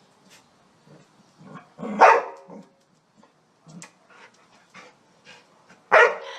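A dog barking twice, once about two seconds in and again near the end, with faint small clicks and rustles between the barks.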